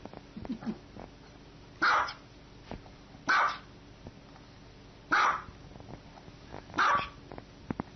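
Small white dog barking four times, sharp single barks spaced about one and a half to two seconds apart.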